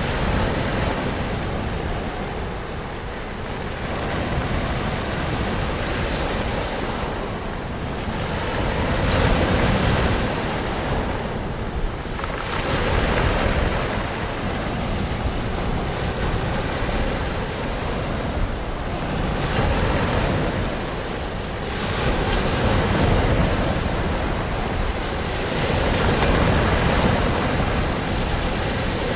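Ocean surf: waves breaking and washing in, the rush swelling and easing every few seconds over a steady low rumble.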